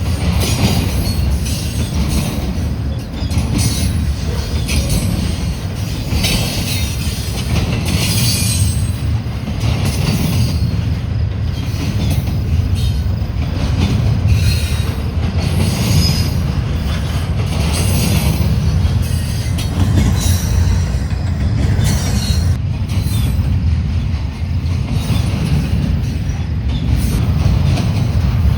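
Union Pacific double-stack container train rolling past: a steady low rumble of wheels on rail, broken by repeated short bursts of high wheel squeal and clatter.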